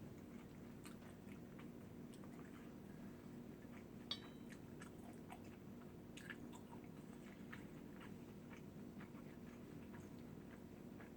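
Quiet chewing and small wet mouth sounds of someone eating, with scattered faint clicks and one sharper clink about four seconds in.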